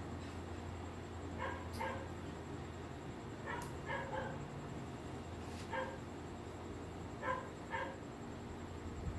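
A dog barking in short, pitched yaps, in twos and threes, about eight in all.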